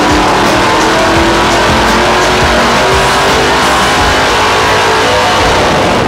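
Race car engine at full throttle on a chassis dynamometer, its pitch climbing steadily over about five seconds through a power run.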